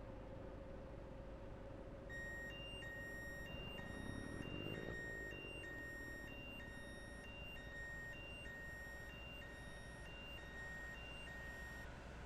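Electronic warning beeper sounding in a steady two-tone pattern, a lower and a higher beep alternating about once a second, starting about two seconds in and stopping shortly before the end, over the steady drone of a running truck engine.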